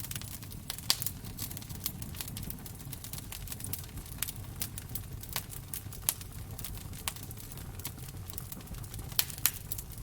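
Wood fire crackling in a fireplace: irregular sharp pops and snaps over a steady low rumble of the flames, with a few louder pops about a second in and near the end.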